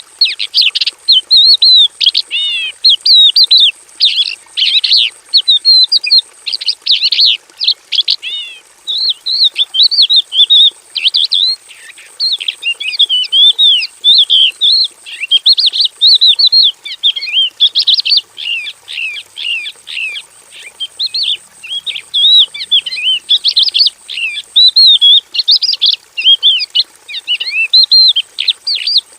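Horsfield's bush lark (Javan bush lark, branjangan jawa) singing a fast, unbroken, varied song of short rising and falling whistles and chirps, full of mimicked phrases.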